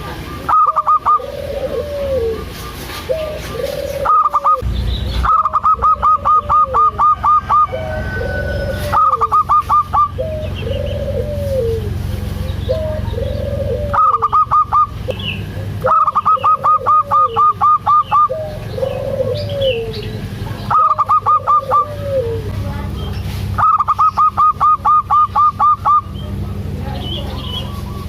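Perkutut (zebra doves) calling. A low arching coo repeats about once a second, and every few seconds loud bursts of rapid staccato higher notes, about eight a second, break in over it, each burst lasting from under a second to about two seconds.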